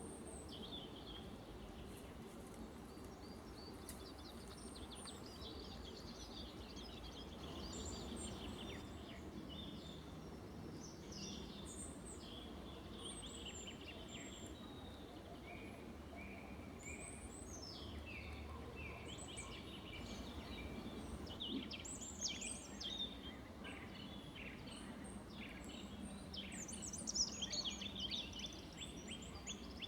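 Several forest birds singing and calling at once in a spring morning chorus, with many overlapping chirps and trills that grow busier in the second half. A low steady background noise runs underneath.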